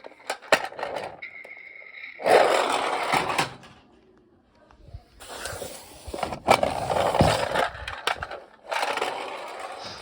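Toy trucks' small plastic wheels rolling and scraping across a hard surface in three rough bursts, with a few clicks and knocks at the start.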